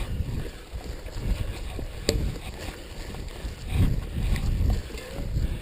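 Mountain bike ridden over a cross-country trail: a low rumble of wind on the microphone and tyres on rough ground, rising and falling, with a sharp knock about two seconds in.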